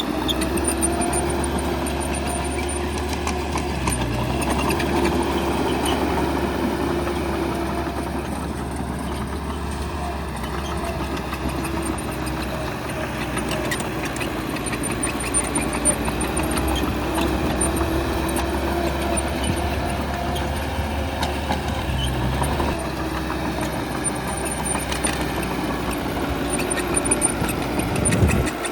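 Heavy diesel engine of earthmoving equipment running steadily, its level rising and falling a little.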